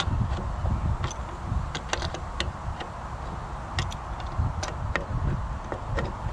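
A wrench turning a rusted nut off an old steel barbecue's mounting bolt, making irregular sharp metal clicks and scrapes over a low rumble. The nut is loosening.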